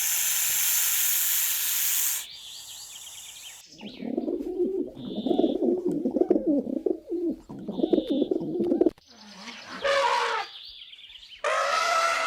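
A loud hiss for about two seconds, then pigeons cooing for about five seconds, followed by two short, higher-pitched animal calls near the end.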